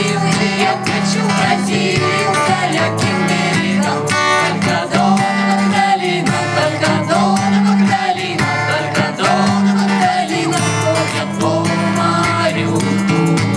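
Group of voices singing a folk song to strummed acoustic guitar accompaniment.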